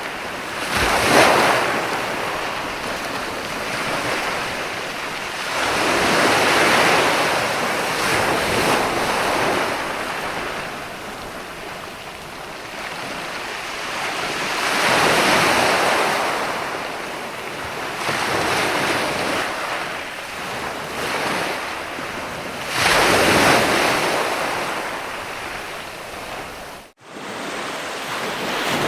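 Ocean waves breaking and washing on a shore, swelling and fading in four surges several seconds apart. The sound cuts out for an instant near the end.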